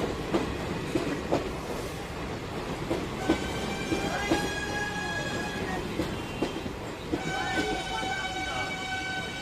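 Darjeeling Himalayan Railway toy train rolling, with irregular clacks of the wheels over the rail joints. Two long high-pitched blasts of the train's horn sound, the first about three seconds in and the second about seven seconds in.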